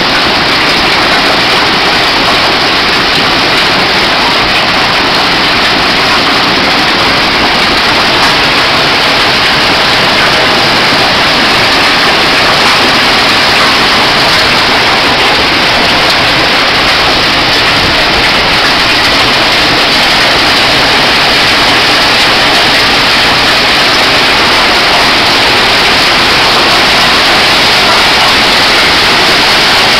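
Hailstorm: hail and heavy rain pelting down in a loud, dense, unbroken hiss.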